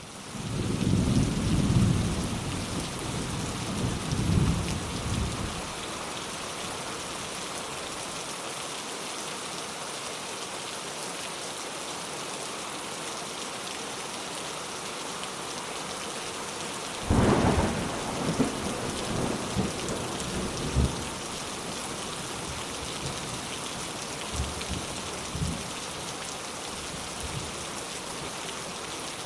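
Steady rain with thunder: a low rolling rumble over the first few seconds, then a sharper crack about 17 seconds in that rolls on for a few seconds, and faint distant rumbles near the end, all over a constant rain hiss.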